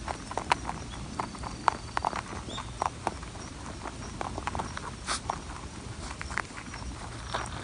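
Rabbit chewing food taken from a hand: quick, irregular crisp crunching clicks.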